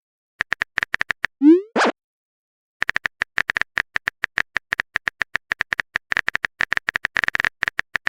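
Phone-keyboard typing sound effect, a rapid run of short, identical clicks. About a second and a half in, a short rising pop marks a message being sent. A longer run of typing clicks follows.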